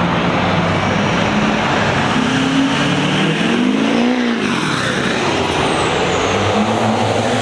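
Car engines running close by, with one engine revving up and dropping back down about halfway through.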